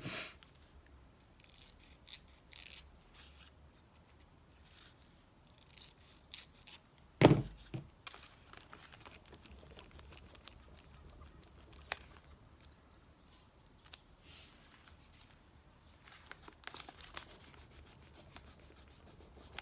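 Quiet handling of paper cut-outs: soft rustling and rubbing of paper with scattered small clicks, and one dull thump about seven seconds in.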